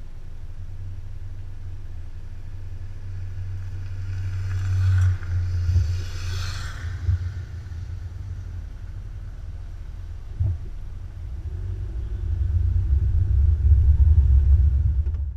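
Low, steady rumble of a motorcycle being ridden, engine and wind noise on the microphone, with a louder rush about five to seven seconds in and the level rising again near the end.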